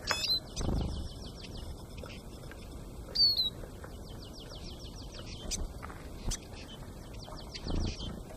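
Birds calling: a short, sharp high call twice, and long runs of rapid high ticking notes at about ten a second. Two dull low thumps come just under a second in and again near the end.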